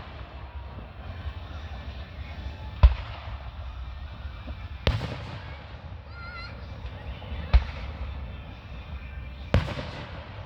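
Aerial fireworks bursting: four sharp booms, roughly two to three seconds apart, over a steady low background rumble.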